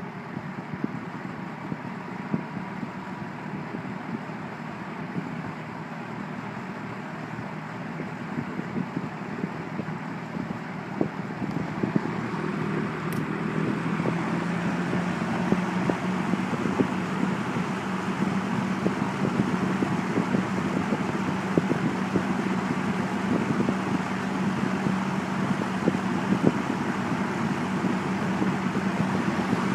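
1973 Kmart P-23 box fan running on its low setting: a steady rush of air over a low motor hum, growing gradually louder through the first half.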